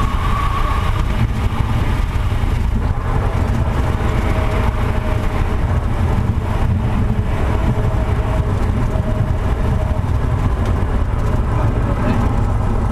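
Wind buffeting the microphone as a loud, steady, gusty low rumble, with a faint steady hum underneath.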